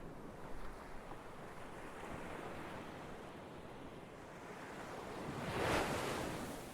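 Ocean surf: waves washing steadily, with one wave building and breaking louder about two-thirds of the way in before falling away.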